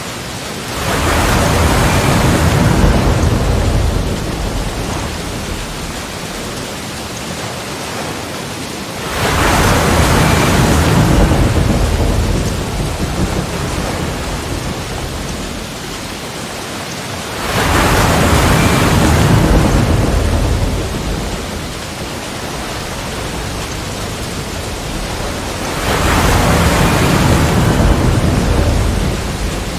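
Sea waves breaking and crashing against rocks. Four surges of surf come about eight seconds apart, each swelling and falling away over a few seconds, with a steady wash of water between them.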